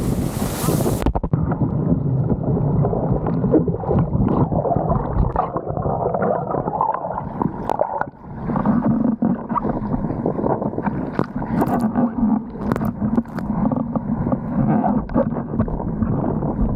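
Windsurf action camera's own microphone: wind buffeting it for about a second, then the sound turns suddenly muffled into rushing, gurgling water with occasional sharp clicks, as from a submerged or soaked microphone.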